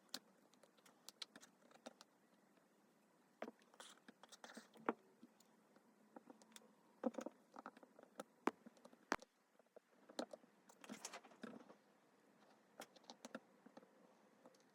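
Faint, scattered clicks and taps of small repair tools and phone parts being handled on a workbench, over near silence.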